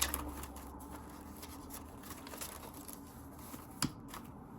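Paper banknotes being handled and sorted: soft rustling and light clicks, with one sharper tap near the end.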